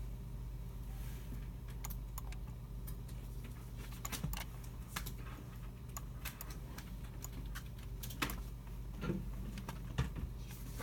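Scattered, irregular computer keyboard keystrokes and mouse clicks from people at the computers, over a steady low hum in the room.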